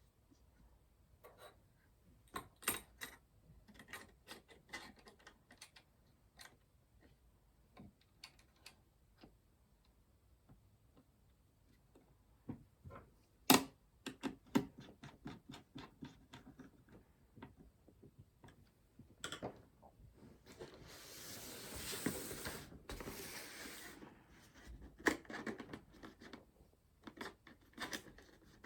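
Hands working on PC hardware: scattered light clicks and taps of small plastic and metal parts, with one sharp click about halfway. A few seconds of rustling and scraping follow, then more clicks.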